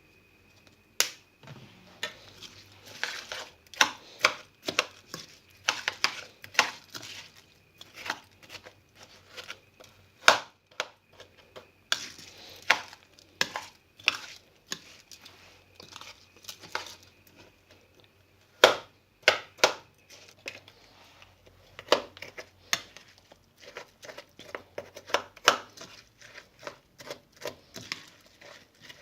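Kitchen food preparation: irregular sharp knocks and clicks of food being chopped and handled on a board, in loose clusters with short pauses.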